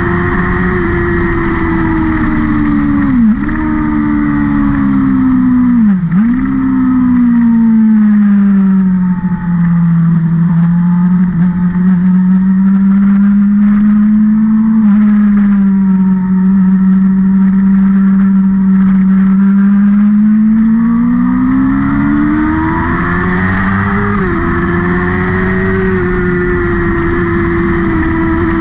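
Engine of a vehicle lapping a race circuit, running continuously: its pitch dips sharply twice in the first six seconds, sinks and holds low through the middle, then climbs again with another quick dip near the end.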